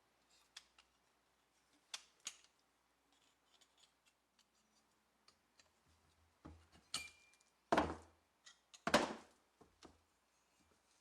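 Hand tool work on metal parts: scattered light clicks and taps, then several louder scraping strokes in the second half.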